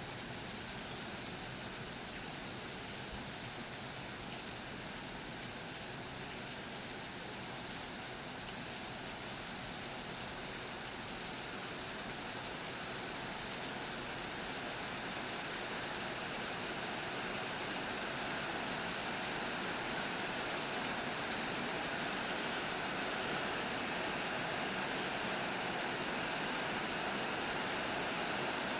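Steady rain falling during a storm, an even hiss that slowly grows louder through the second half.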